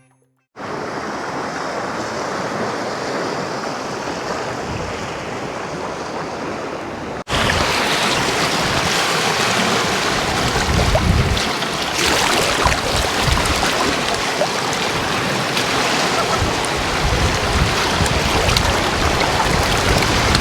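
Wind buffeting the microphone over the sound of sea waves, a steady noise that turns louder and gustier after an edit about seven seconds in.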